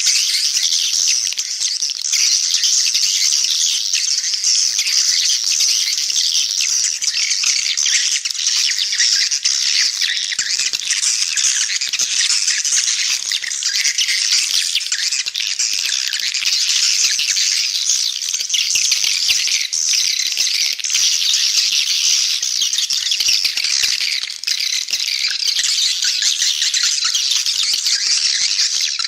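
Edible-nest swiftlet lure calls: a dense, unbroken chorus of rapid high chirps and twitters, cut off below the mid range, played as a calling sound to draw swiftlets into a bird house.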